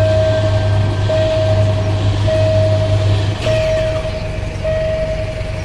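Railway level-crossing warning signal: a steady electronic tone that repeats with a short break about every second, over the low rumble of an engine. About three and a half seconds in, a brief falling squeal cuts through.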